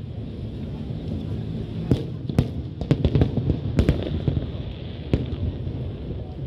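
Aerial fireworks going off: a string of sharp bangs, bunched between about two and four seconds in with one more near five seconds, over a constant low rumble from the display.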